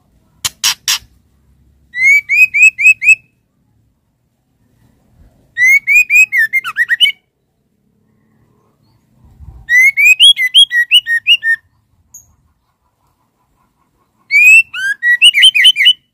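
Female white-rumped shama calling: four short bursts of quick rising whistled notes, about six notes each and a few seconds apart. Two or three harsh clicks come just before the first burst.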